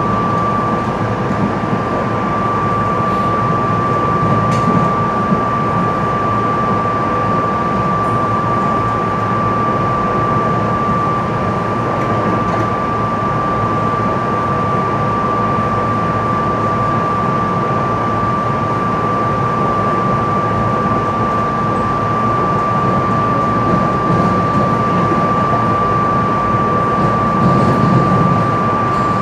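SEPTA Silverliner IV electric multiple-unit train heard from inside the car while running: a steady rumble of wheels on track, with a constant high whine running throughout. It grows slightly louder near the end as the train enters the tunnel.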